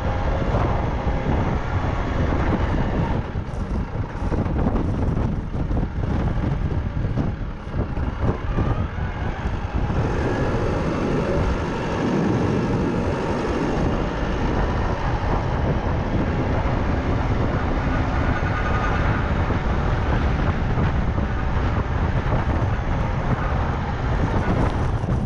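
Small tractor's engine running steadily during snow clearing, with wind noise on the microphone.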